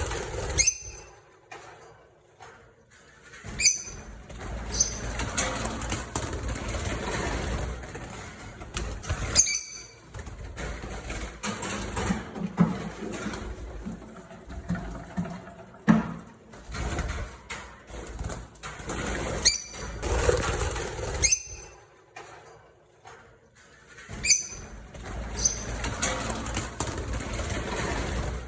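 Lovebirds calling, with short, sharp high-pitched chirps repeated every few seconds over a steady background hiss.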